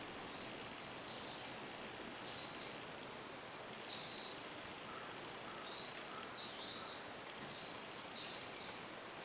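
A bird calling repeatedly: five thin, high whistled notes, each under a second, some dropping in pitch, over a steady hiss.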